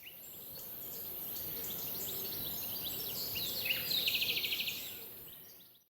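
Birds chirping and twittering over a steady high hiss of outdoor ambience, with a fast trill a little past the middle. The sound fades in at the start and fades out at the end.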